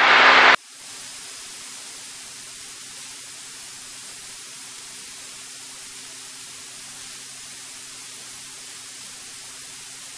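Steady hiss from the cockpit intercom/headset audio feed, with a faint low hum beneath it. A voice cuts off abruptly about half a second in, leaving only the hiss.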